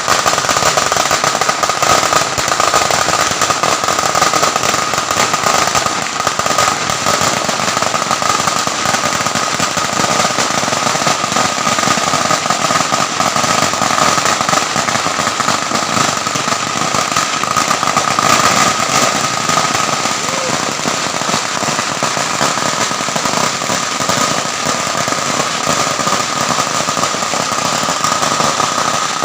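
A long string of firecrackers going off in a rapid, unbroken crackle of tiny bangs, holding at the same loud level throughout.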